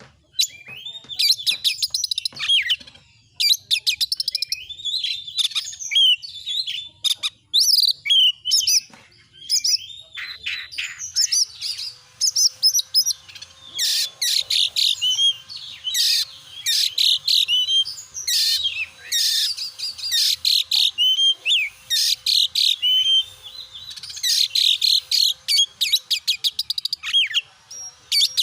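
Oriental magpie-robin (kacer) singing in full, energetic song: a long, varied run of whistled glides, rapid chirps and chattering trills with only brief pauses.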